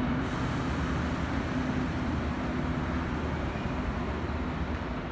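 A train's engine running, a steady low drone that eases off slightly toward the end.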